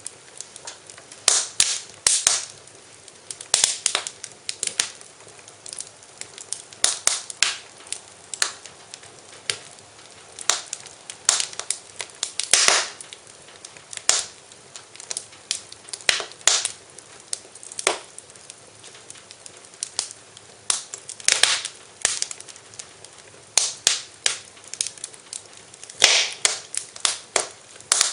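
Wood fire in a fireplace crackling, with irregular sharp snaps and pops, often several in quick succession, over a faint steady hiss.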